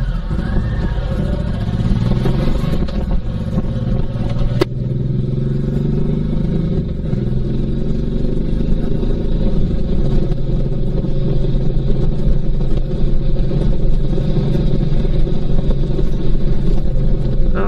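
Honda VTX1800C's big V-twin engine running under way. Its note rises over the first few seconds, holds, then eases off from about nine seconds in. There is a single sharp click about four and a half seconds in.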